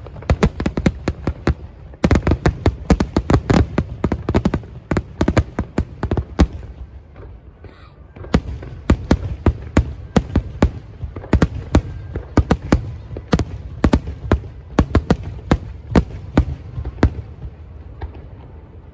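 Aerial fireworks shells bursting in a rapid barrage of sharp bangs. They ease off for a moment about seven seconds in, then go on at about two or three bangs a second.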